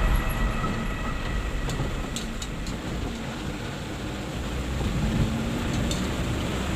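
Steady low rumble of a loaded truck being driven, heard from the cab, with a few light clicks or rattles.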